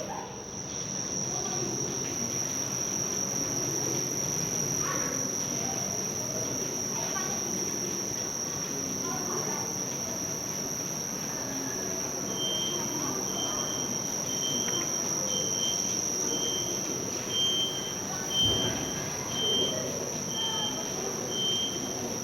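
Steady high-pitched whine over an even low room noise. About halfway in, a regular run of short high chirps starts, a little faster than one a second, and a few faint sounds like voices come near the end.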